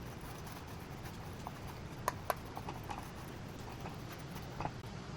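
Scattered light clicks and taps of kitchen utensils being handled, two sharper ones close together about two seconds in and another near the end, over a low steady hum.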